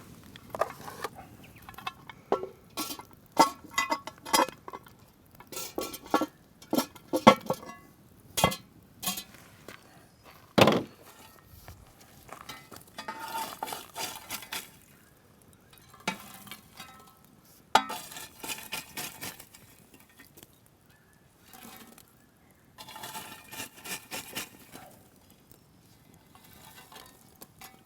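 Cooking utensils clinking and knocking against cookware, a quick run of sharp knocks in the first half, then several stretches of scraping, as diced vegetables are put in to roast.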